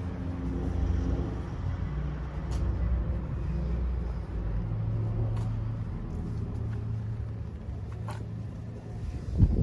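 Yamaha YZF-R3's 321 cc parallel-twin engine idling with a steady low rumble, with a sudden louder burst right at the end.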